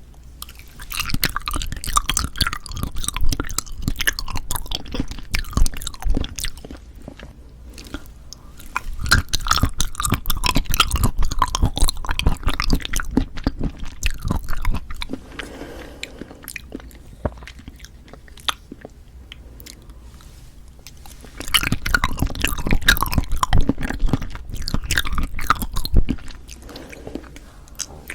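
Close-miked wet chewing of Cheonhyehyang citrus cup jelly, in three bouts of many small clicks and squishes with quieter pauses between.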